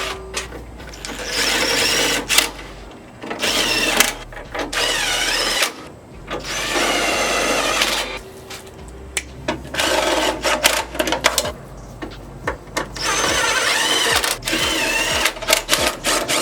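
Cordless power driver spinning in short bursts of one to two seconds, its motor whine wavering as the trigger is feathered, with clicks between bursts, as it runs the headlight mounting bolts in or out.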